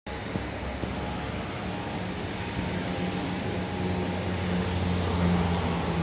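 Steady engine drone: a low hum over a broad rush of noise, growing a little louder toward the end.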